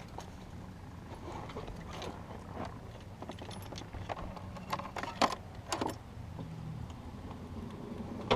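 Honda Gold Wing motorcycle engine idling with a steady low hum, with several sharp clicks and knocks from the bike being handled, most of them around the middle.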